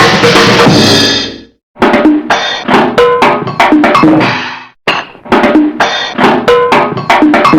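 Cartoon sound effects: a loud noisy burst for the first second and a half, then a short cartoon percussion phrase of rapid drum hits and short pitched notes, played twice in a row.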